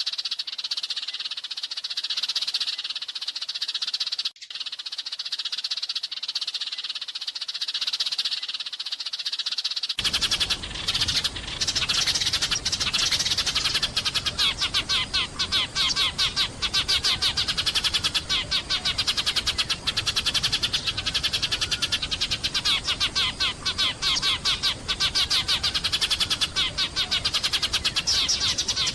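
A flock of sparrows chirping continuously in a dense, overlapping chorus. About ten seconds in, the chirping turns faster and more tightly packed, with a low background rumble added.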